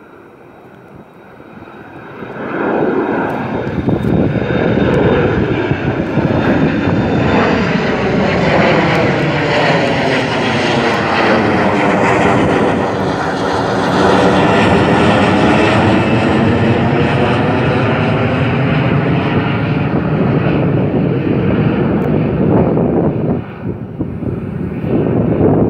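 Jet airliner departing at takeoff power, its engines swelling to a loud roar about two seconds in and holding it as the aircraft passes by.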